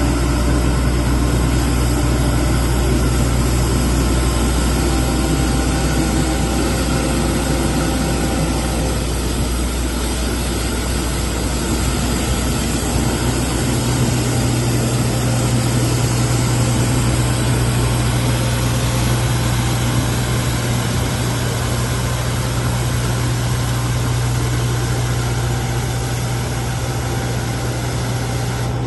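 Street sweeper truck's engine running steadily with an even hiss over it; the low engine tone gives way to a higher steady hum about halfway through.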